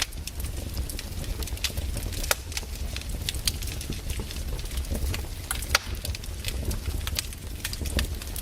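Burning firewood crackling and popping in irregular sharp clicks over a steady low rumble of the fire, with one louder pop a little past the middle.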